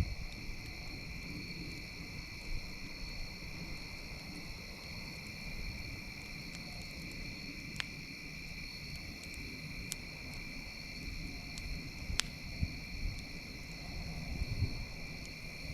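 Campfire crackling, with a few sharp pops, over a steady shrill chorus of insects.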